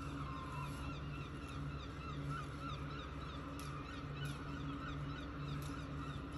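Fledgling gull chick crying for food, a run of short, rapidly repeated begging calls, over a steady low hum.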